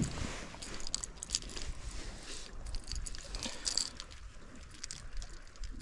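Close handling noises in a kayak as a just-landed bass is brought aboard and unhooked: a sharp knock at the start, then scattered small clicks, taps and rustles.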